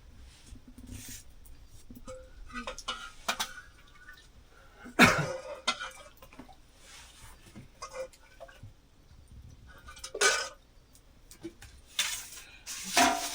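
Scattered clatter of pots, dishes and utensils: a few separate knocks and clinks, the loudest about five seconds in and again near ten and twelve seconds in.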